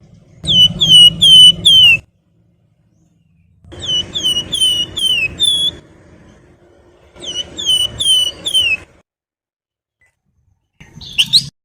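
Javan fulvetta (flamboyan, wergan Jawa) singing: three phrases of clear whistled notes, each note sliding downward, about five notes to a phrase with short pauses between phrases. Near the end come short, quicker twittering bursts.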